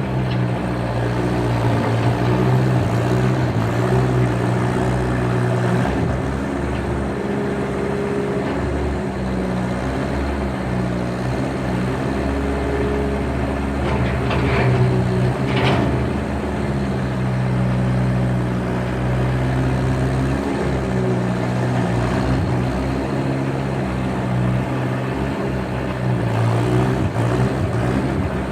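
Skid steer engine running steadily under working load, its pitch rising and falling a little as it works the rubble, with two short higher-pitched sounds a little past halfway.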